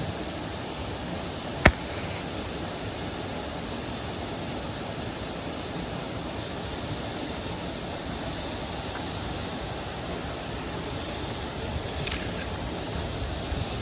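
Steady rushing of a mountain stream and waterfall. A single sharp click about two seconds in is the loudest thing, with a few faint ticks near the end.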